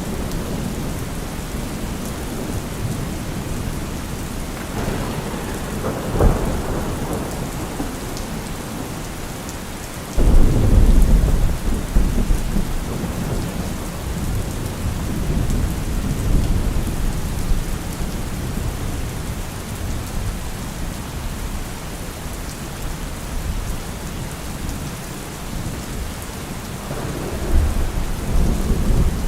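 Steady rain falling through a thunderstorm. A rumble of thunder about five seconds in ends in a sharp crack, a loud clap breaks suddenly about ten seconds in and rumbles away over several seconds, and another rumble builds near the end.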